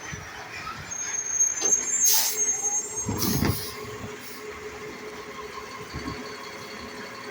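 Garbage truck running, with a high squeal from about one to three seconds in and two short hisses of air, like air brakes, at about two and three seconds in.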